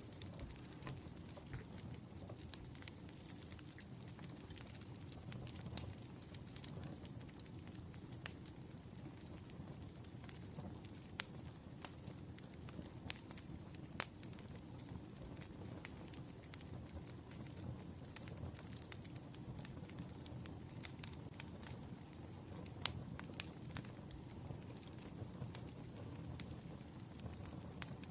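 Wood fire burning: scattered sharp crackles and pops over a low steady rumble.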